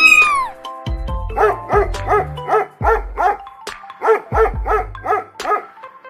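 A cat meows once, falling at the end. About a second later a dog begins barking in a quick, even run of about three barks a second, over background music with a low bass line.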